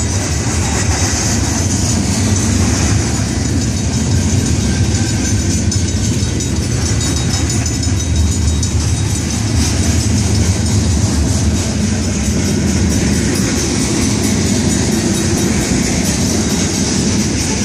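Cars of a freight train rolling steadily past: a loud, continuous sound of steel wheels running on the rails, strongest low down, with no single knock or squeal standing out.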